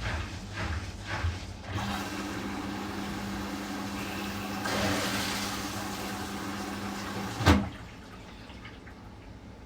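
Washing machine starting a quick-wash cycle: a short run of rhythmic pulsing, then a steady hum with rushing water as it fills, ending in a sharp click about seven and a half seconds in, after which it goes quieter.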